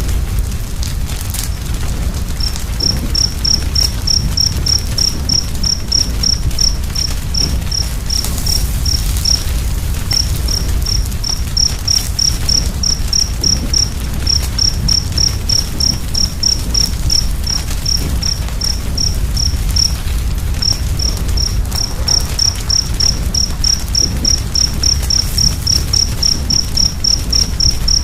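Wood fire crackling over a steady low rumble, with a cricket chirping in a regular train of short high-pitched chirps, about three to five a second. The chirping begins a couple of seconds in, pauses briefly twice, and grows quicker near the end.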